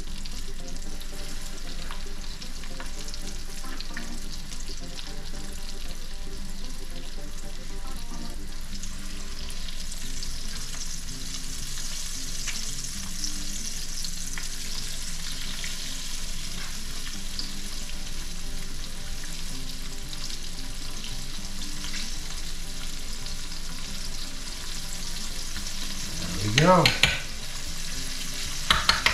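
Floured venison steaks frying in hot melted Crisco shortening in a skillet: a steady sizzle with a bright hiss. A brief louder sound cuts in near the end.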